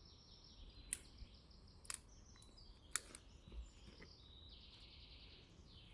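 Faint songbird song made of repeated high trilling phrases, with three sharp clicks about a second apart.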